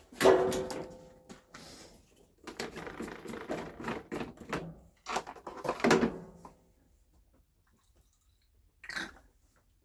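Knocks and clatter of hard objects being handled, loudest just after the start and around six seconds in, stopping at about six and a half seconds. One short knock follows near the end.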